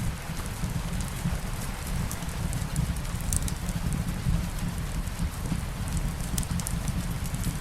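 Steady light rain falling, mixed with a fireplace's wood fire giving scattered small, sharp crackles over a low, even rumble.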